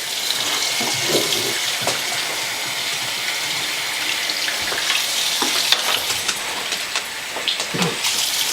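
Steady hiss of running water, with a few faint clicks.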